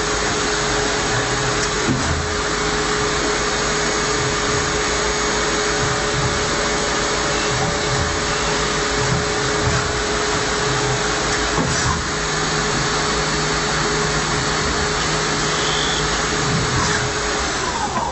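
CNC machining machine running steadily: a constant rushing hiss with a steady whine held through it.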